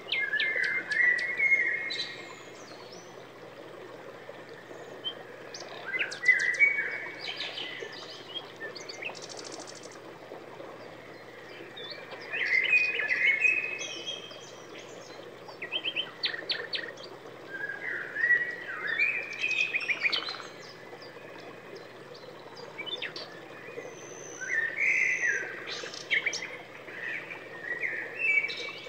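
A songbird singing short warbling phrases with sharp chips, about five phrases each roughly two seconds long, coming every six seconds or so over a steady background hiss.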